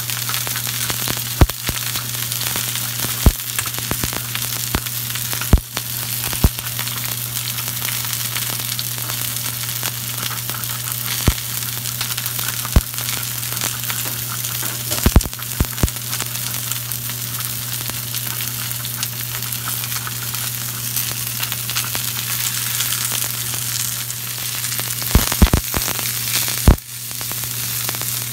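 Broccoli frying in oil in a nonstick pan: a steady sizzling hiss with scattered sharp clicks and pops, a few of them bunched together near the middle and near the end.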